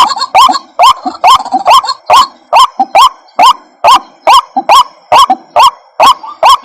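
White-breasted waterhen calling its repeated 'ruak-ruak', about two or three loud, upward-hooking notes a second, from a lure-call recording used to call the birds in.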